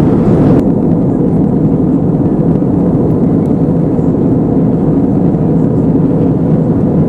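Steady cabin noise inside a British Airways Airbus A320-232 in flight: the low roar of its IAE V2500 engines and the airflow. The higher hiss drops away abruptly just after the start.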